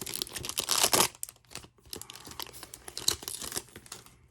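Foil trading-card pack being torn open and crinkled by hand, loudest and densest in the first second, then lighter scattered crinkles and rustles.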